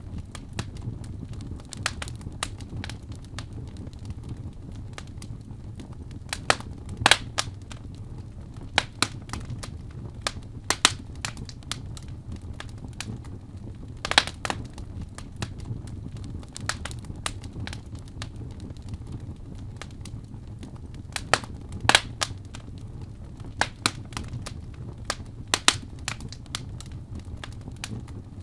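Fire in a fireplace crackling: irregular sharp pops and snaps, some louder than others, over a steady low rumble.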